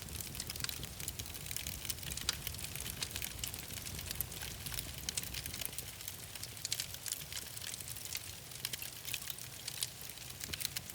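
Wood fire crackling and popping in a fireplace: irregular sharp snaps over a steady low rumble of the burning fire.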